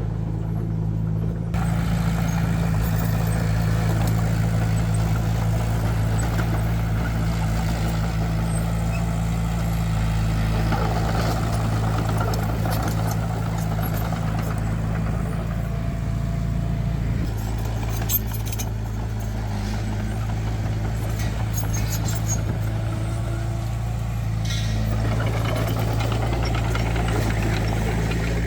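Heavy diesel construction machinery running steadily. The noise grows louder about a second and a half in as the machine works, and there is a single sharp knock around the middle.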